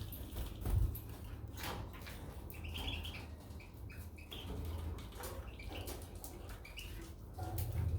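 Caged goldfinches and canaries giving short, scattered chirps among light clicks, over a low steady hum.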